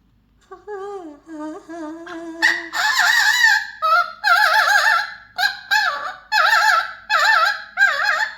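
Mealy Amazon parrot singing: it starts with softer, lower wavering notes about half a second in, then from about two and a half seconds goes into loud warbling notes with a wobbling pitch, repeated in short phrases.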